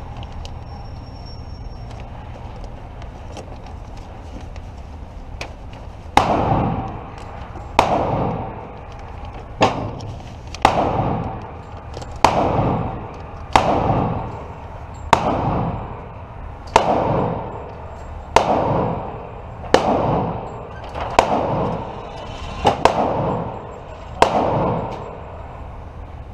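Pistol gunshots from a CZ TS2 chambered in 9x19 firing 115-grain FMJ ammunition, slow aimed fire of about one shot every second and a half starting about six seconds in, each sharp crack followed by a short echo.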